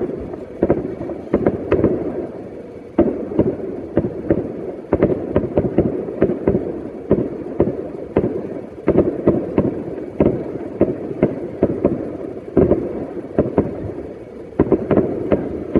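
Fireworks going off in a dense barrage: many sharp bangs and cracks a second over a continuous low rumble.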